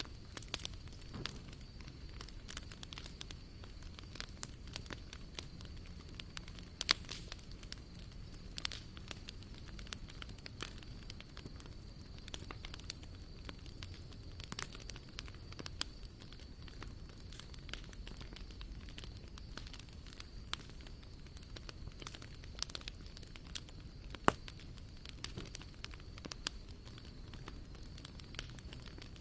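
Swedish torch log burning, the wood crackling with frequent sharp snaps and pops over a low steady rush of flame.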